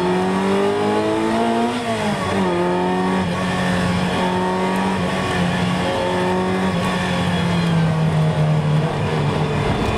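Ferrari 328's 3.2-litre V8 heard from inside the cabin while driven on a race track: the revs climb for about two seconds, drop sharply, then the engine runs at a fairly even pitch, easing slightly near the end.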